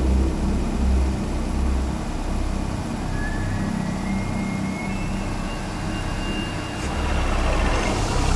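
Low, steady rumble of a car engine idling. From about three seconds in, faint high tones step slowly upward in pitch over it.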